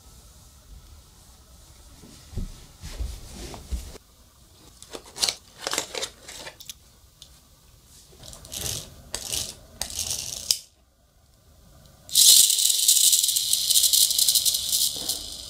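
Clockwork toy car: scattered clicking and rattling, then a loud, high, buzzing whir for about three seconds starting near the end, fading at the very end.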